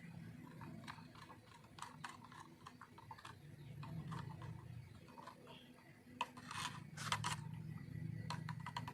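Paint and thinner being mixed by hand in a small container: faint scrapes and light clicks, with a few sharper taps near the end, over a low steady hum.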